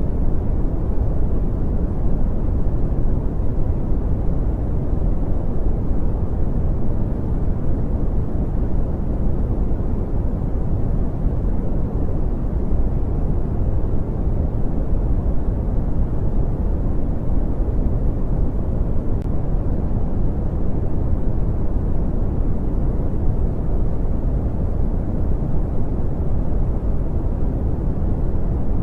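Brown noise: a steady, deep hiss with its energy heaped in the bass and falling away toward the highs, with no changes.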